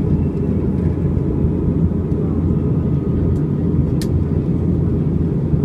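Steady low rumble of an Airbus A320 in flight, with engine and airflow noise and no change in pitch. A single brief click about four seconds in.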